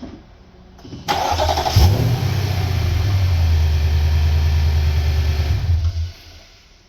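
Nissan Patrol Y62's 5.6-litre V8 turned over by a newly fitted starter motor, catching after under a second of cranking. It runs steadily for about four seconds, then shuts off. The new starter engages, where the old one wouldn't.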